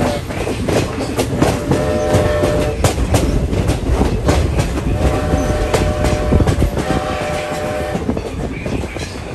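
Steam whistle of Strasburg Rail Road No. 90, a Baldwin 2-10-0 steam locomotive, sounding a long blast about two seconds in and then three more blasts from about five seconds in. Underneath, the rolling coach keeps up a steady rumble and the clickety-clack of wheels over rail joints.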